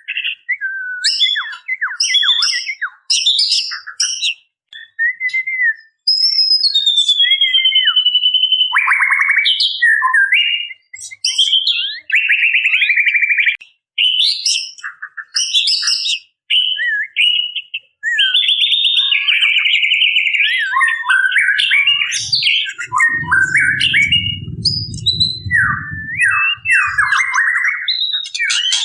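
White-rumped shama (murai batu) calling without pause: a rapid run of varied whistled notes, rattling notes and held clear whistles, offered as a female in breeding condition calling to males. A low rumble is heard for a few seconds about three-quarters of the way through.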